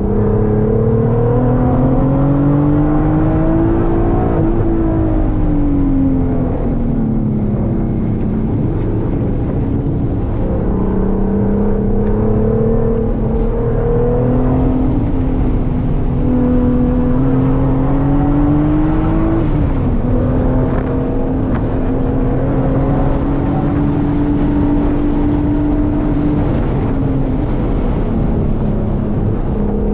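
A Volkswagen's engine being driven hard on a road course. Its pitch climbs and falls over several seconds at a time as it accelerates and slows through corners, and drops sharply at a gear change about two-thirds of the way through.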